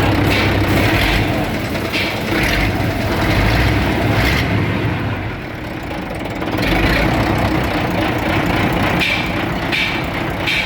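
Mitsubishi 8DC9 V8 diesel engine running on a test run. It gets quieter for about two seconds near the middle, then comes back up to its earlier level.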